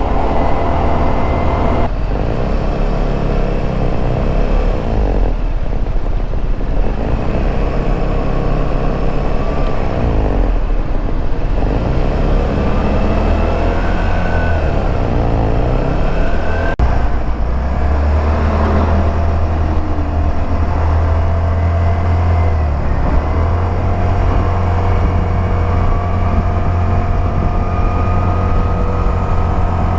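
Suzuki Burgman 200 scooter's single-cylinder four-stroke engine and exhaust running while riding, a steady deep drone whose pitch rises and falls a few times around the middle as the throttle opens and closes, over road and wind noise.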